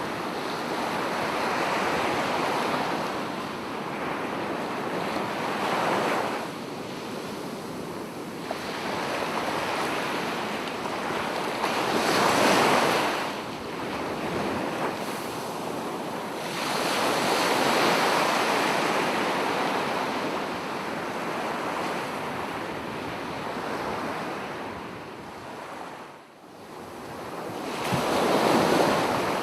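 Sea waves breaking on a beach and washing back. The surf swells and fades every few seconds, with a deep lull just before the last wave.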